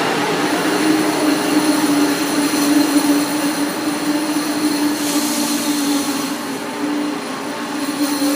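A train passing close by, its cars rolling on the rails: a loud, steady rumble of wheels with a few steady tones running over it.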